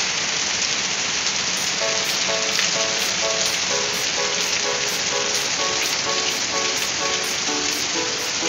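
Heavy rain pouring steadily. Background music of short repeated melody notes comes in about two seconds in.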